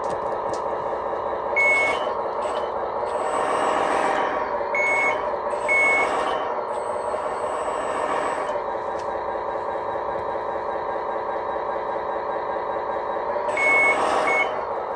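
RC truck electronic sound module playing a simulated diesel truck engine through its small speaker, idling steadily and swelling up for a few seconds in the middle. Short beeps with bursts of hiss come several times over it, at about 2, 5, 6 and 14 seconds.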